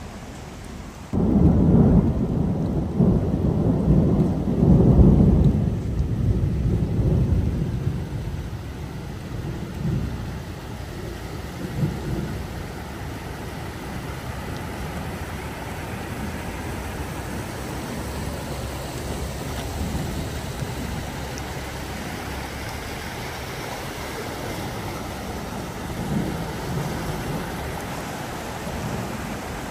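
Heavy rain falling steadily on a flooded street, a continuous hiss of rain and running water. About a second in, a loud low rumble starts abruptly and rolls on, fading over several seconds. Near the end, a car splashes through the standing water close by.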